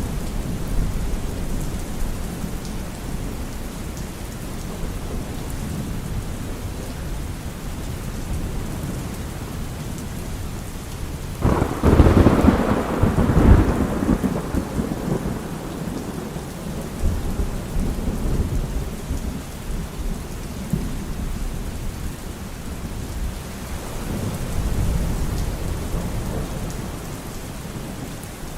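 Steady rain with thunder rumbling; about eleven seconds in a sharp, loud thunderclap cracks and rolls off over a few seconds, with lighter rumbles after.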